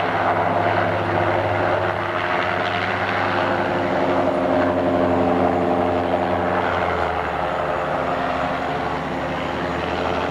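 Helicopter flying low overhead: a steady rotor and turbine drone with a stack of level engine tones that shift slightly in pitch partway through as it moves.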